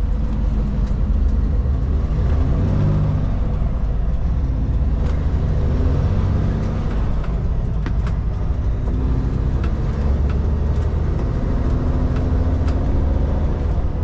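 Kenworth K200 road train's Cummins diesel engine running, heard from inside the cab at low speed. Its pitch rises and falls a few times, with scattered light clicks over the drone.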